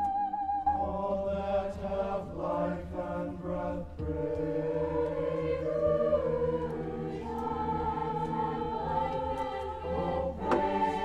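High school vocal jazz choir singing a sustained passage without clear words, moving from one held chord to the next every few seconds.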